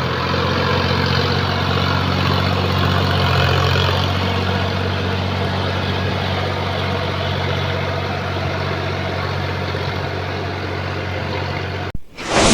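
Sonalika tractor's diesel engine running steadily at an even pitch. Near the end the engine sound cuts off abruptly and a loud, sudden hit follows.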